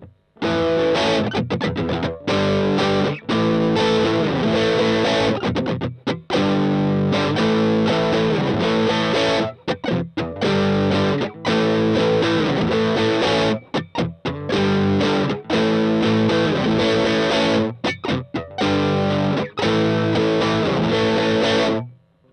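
Electric guitar (Stratocaster) played through a Valeton Dapper Mini pedal's distorted amp and cabinet simulation: a chordal riff with short muted stops, repeating about every four seconds, starting about half a second in and cutting off near the end.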